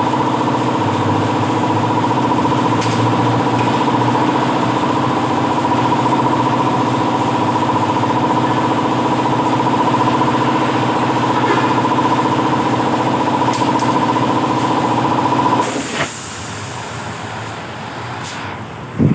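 A motor running steadily with an even, humming drone, cutting off abruptly about three-quarters of the way through; a single sharp knock follows near the end.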